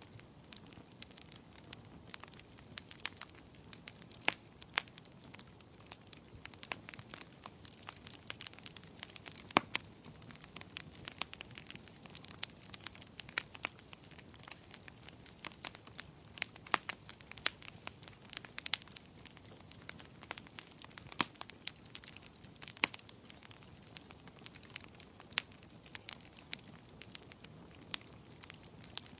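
Fireplace fire crackling: irregular sharp snaps, several a second, over a soft steady hiss.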